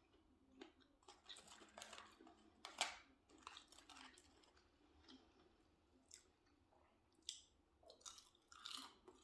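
Faint, close-up chewing of crispy fried cheese curds, with irregular small crunches and wet mouth sounds and one louder crunch about three seconds in.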